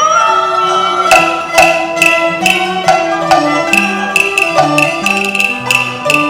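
Cantonese opera accompaniment ensemble playing an instrumental passage: a bowed-string melody over sharp percussion strikes about twice a second.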